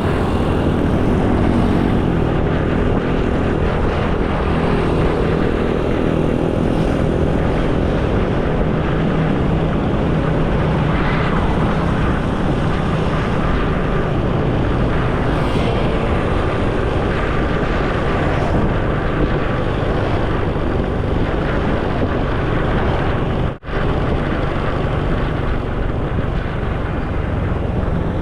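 Motorcycle riding at speed: a steady, loud rush of wind on the microphone over the engine running. The sound cuts out for an instant about three-quarters of the way through.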